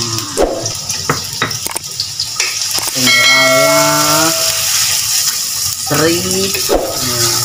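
Chopped garlic sizzling in hot oil in a stainless steel wok, stirred with a wooden spatula, with a few short knocks in the first two seconds. About three seconds in, a louder pitched, ringing sound lasts for about a second and a half.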